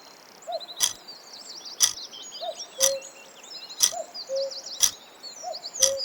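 A quiz countdown timer ticks about once a second, six ticks, over a background track of chirping birds.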